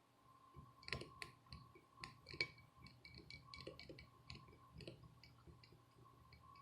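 Faint, irregular small clicks and taps of hand tools against a circuit board during soldering, the sharpest about a second in and again around two and a half seconds in, over a faint steady tone.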